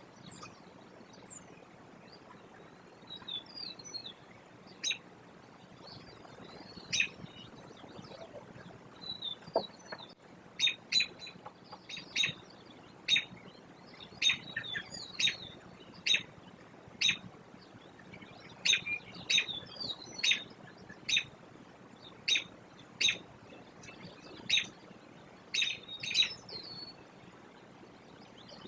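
Birds chirping: short sharp calls, sparse at first and then about one a second from roughly ten seconds in, with softer twittering chirps in between.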